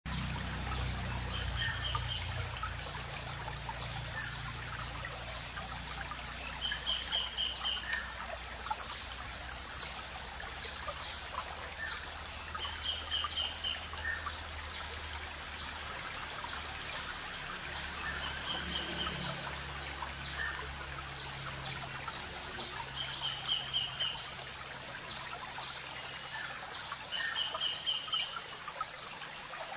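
A small forest stream trickling and babbling steadily, with several birds calling over it. One bird repeats a short, rapid trill about every six seconds, while others give many short high notes.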